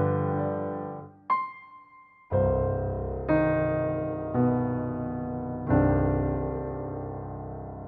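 Background piano music: slow notes and chords struck every second or so and left to ring out, with a brief near-pause about a second in and a long fading chord near the end.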